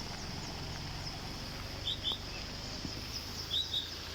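Birds chirping in short paired notes, twice, over a steady high insect drone and an even background hiss.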